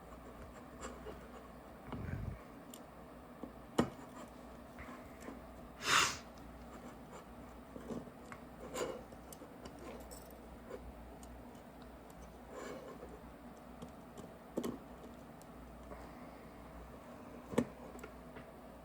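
Small screwdriver and small metal parts being handled while tiny screws are driven into a paintball marker's frame: scattered light clicks and taps, with a brief rustle about six seconds in.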